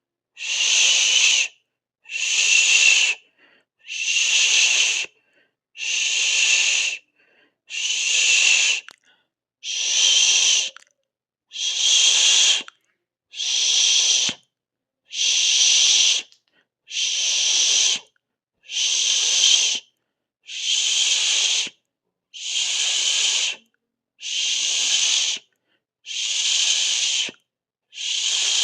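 A person hissing 'sss' through the teeth, over and over. Each hiss lasts a little over a second, with a short silence between, about one every 1.7 seconds.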